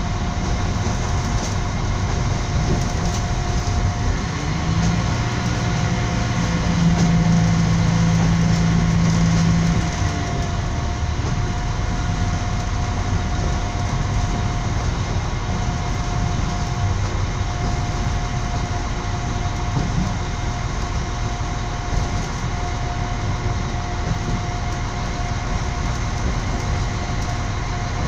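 Train running, heard from inside the passenger car: a steady rolling rumble with a thin steady whine over it. A deeper hum rises about five seconds in and drops away about ten seconds in.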